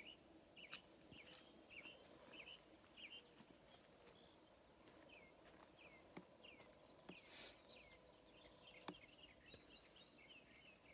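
Faint outdoor quiet with a small bird chirping over and over, short high notes, some sliding down in pitch, a couple a second. A few soft clicks and a brief rustle about seven seconds in.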